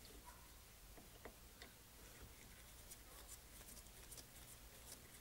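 Near silence with scattered faint light clicks and ticks of small metal parts of a one-barrel carburetor being handled during a rebuild.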